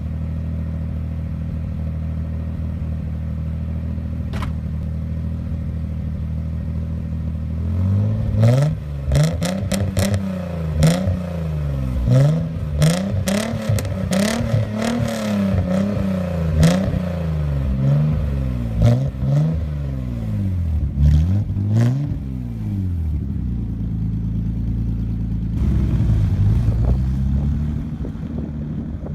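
Nissan 300ZX (Z32) V6 idling through its exhaust, then revved in about a dozen quick blips, each rising and falling back, before settling to idle again.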